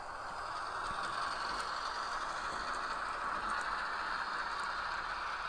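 Model train locomotive running over a curved turnout: a steady whine from its electric motor and gears, with a few faint clicks of the wheels over the track joints.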